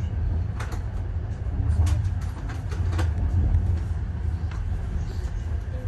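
Passenger train in motion on the rails: a steady low rumble with a few sharp clicks and knocks scattered through it.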